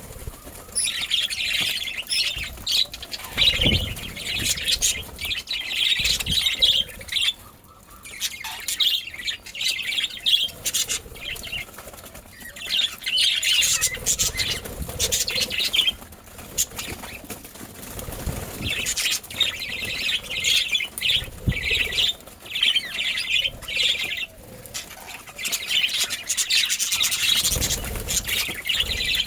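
Budgerigars chirping and chattering in bursts of a few seconds with short pauses between, with a few low thumps.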